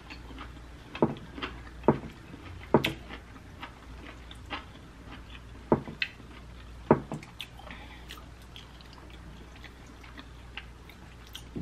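Close-miked chewing with a scattering of short, wet mouth clicks and smacks, the sharpest in the first few seconds and again about six to seven seconds in.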